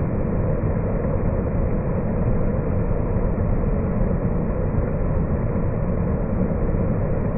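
Steady low rushing noise of a nature soundscape, even throughout with no distinct calls or events.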